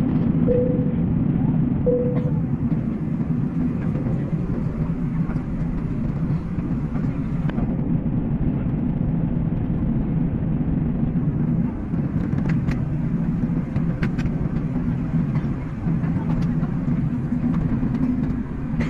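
Steady low rumble of a vehicle running, with two short faint tones in the first two seconds and a few light clicks later on.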